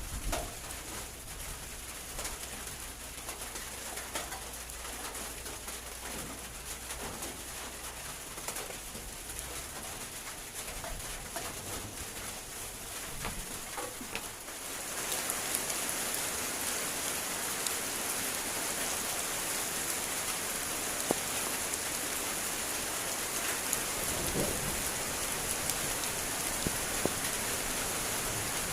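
Rain falling in a rainstorm, pattering with sharp drop ticks, suddenly much louder and heavier about halfway through.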